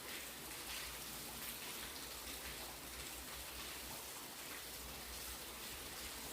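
Fairly heavy rain falling steadily: an even hiss of rain with scattered drops striking surfaces.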